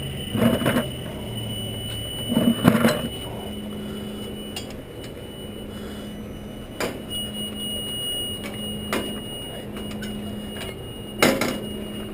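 A steady machine hum with a few loud clunks, one about half a second in, one near three seconds and one near the end.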